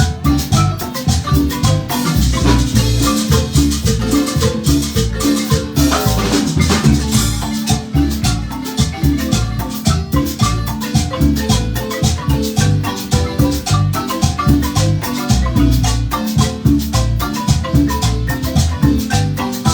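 Marimba ensemble playing a lively piece: quick, rhythmic mallet notes over a low bass line, with shaker and percussion keeping a steady beat.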